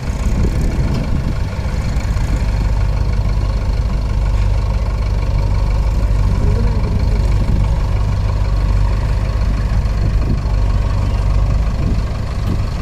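Mahindra 585 DI tractor's four-cylinder diesel engine running steadily.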